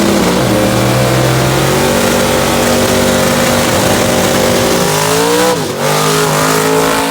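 Drag race car engine running loud at high, steady revs, its pitch dipping briefly and climbing back about five and a half seconds in. The engine sound ends at the close.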